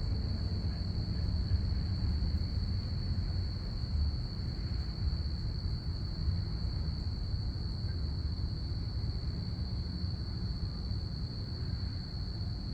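Crickets chirping in a steady, unbroken high trill over a constant low rumble.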